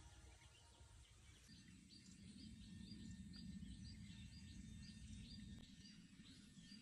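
Faint outdoor ambience with a bird repeating a short, high chirp about two to three times a second, starting about two seconds in, over a low rumble.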